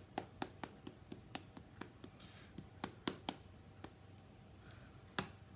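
Light, irregular tapping and clicking from rubber stamping on a Stamparatus stamping platform, several taps a second, then a single sharper click about five seconds in.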